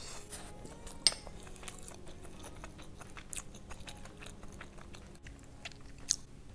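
Close-miked chewing of a mouthful of rice mixed with duck gizzard, duck intestine and braised beef: wet mouth clicks and lip smacks come every fraction of a second. Two sharper clicks stand out, one about a second in and one near the end.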